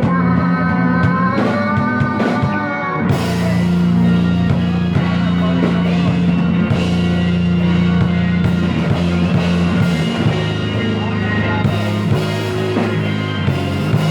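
Instrumental passage of psychedelic rock, a band playing drums and guitar over a sustained low drone. The sound gets fuller and brighter about three seconds in.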